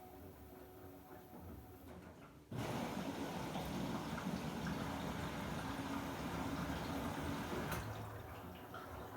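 Samsung WW90J5475FX/AH front-loading washing machine taking in water for its rinse: after a low hum, the water rushes in suddenly about two and a half seconds in and eases off near the end.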